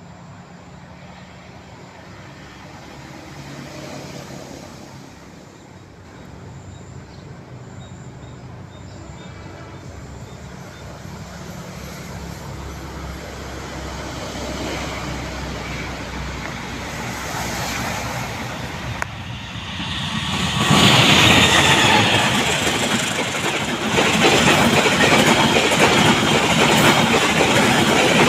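Diesel-electric train approaching, its locomotive's hum growing slowly louder, then passing close at speed about two-thirds of the way in with a loud rush of wheels and wagons on the rails.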